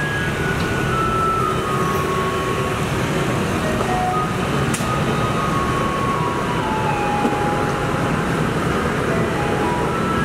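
Garbage truck driving its route: steady engine and road rumble, with a faint tune of held notes from its loudspeaker playing over it.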